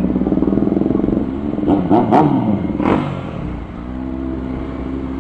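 Motorcycle engine running under way. About two seconds in, its pitch drops as it slows, with a few sharp cracks, and it then settles to a steady lower note.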